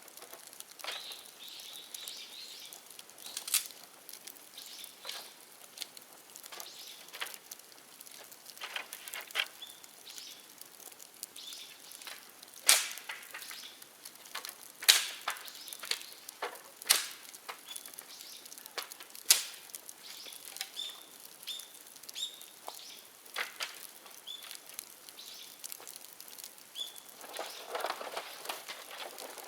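Bonfire of dead bamboo crackling, with irregular sharp pops, a handful of them much louder in the middle stretch. Faint short bird chirps sound now and then.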